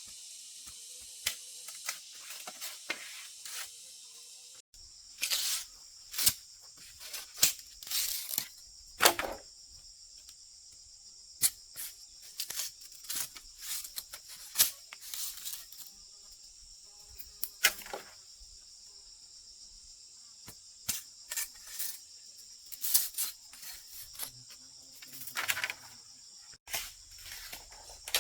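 Crickets chirring steadily, with irregular sharp clicks, knocks and short scraping noises every second or so, the loudest about nine seconds in.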